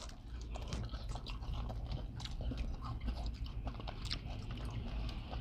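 Biting into and chewing a fried cinnamon apple pie's pastry, heard as scattered small crunches and clicks.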